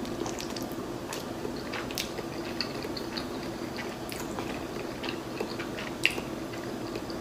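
Close-up chewing of a mouthful of shrimp rice noodle roll, with many small clicking mouth sounds and one sharper click about six seconds in.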